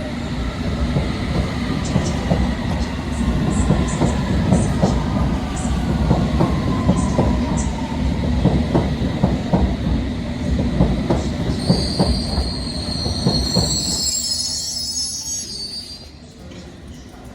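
London Underground Circle line train pulling out: a steady rumble of wheels on rail with a run of sharp clicks over the rail joints. About twelve seconds in, a high wheel squeal rises for a couple of seconds, then the sound fades as the train leaves.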